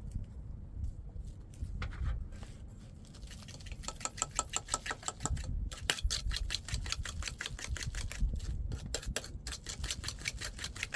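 A rapid run of sharp clicks or taps, several a second, starting about four seconds in, over a low rumble.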